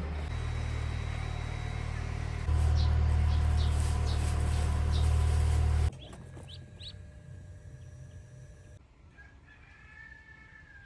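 A low steady rumble, louder from about two and a half seconds in, cuts off suddenly about six seconds in. It gives way to quieter farmyard sound of chickens, with a rooster crowing near the end.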